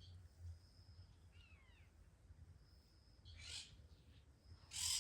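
Birdsong from the nature-sound bed: thin, held, high whistled notes and a few quick falling chirps. Two short noisy rasps break in, the second and louder one near the end, over a faint steady low hum.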